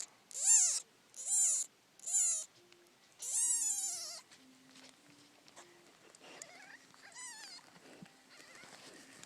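Two-day-old kittens mewing: four loud, high cries in the first four seconds, each rising then falling in pitch, the last one longer, then two fainter cries about six and seven seconds in.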